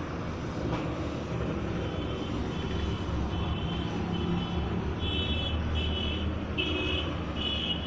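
A motor vehicle runs with a steady low rumble. From about two seconds in, a repeating high-pitched beep sounds roughly every two-thirds of a second and grows louder toward the end.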